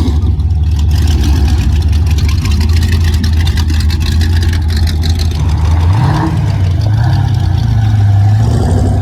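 Car engine rumbling loudly at idle close by, with the revs rising about six seconds in and wavering before settling.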